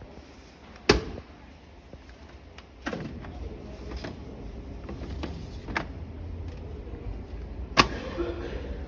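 Display washing machine doors being shut: two loud slams, about a second in and near the end, with several lighter knocks between.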